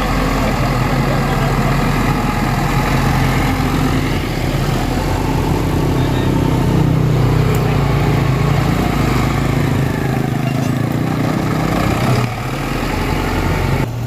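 Engine of heavy road-building machinery (motor grader or excavator) running steadily, with a slight drop in loudness about twelve seconds in.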